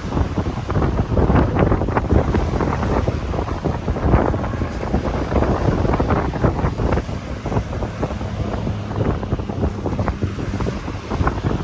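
Strong wind buffeting the microphone in gusts over the noise of ocean waves, loud and rumbling throughout.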